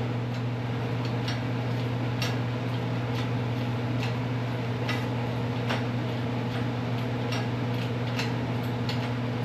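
Steady low machine hum with light, sharp ticks about once a second.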